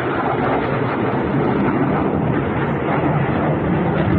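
Jet engine noise of a HAL Tejas fighter's GE F404 turbofan in flight, a steady rushing noise that grows slightly louder.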